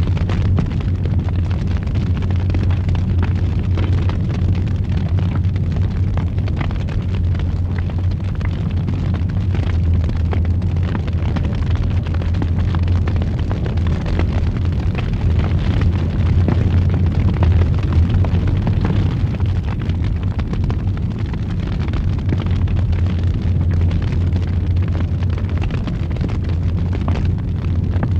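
Wood fire roaring in a fireplace: a steady low rumble with scattered small crackles and pops.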